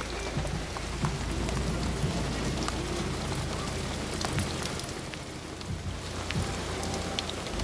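Very heavy rain pouring down in a thunderstorm downpour, a dense, steady hiss dotted with drops hitting surfaces close by, over a low rumble.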